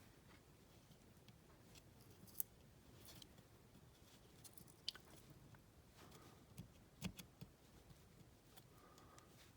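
Near silence with a few faint sharp clicks and ticks, small handling noises while two-part epoxy putty is kneaded by hand.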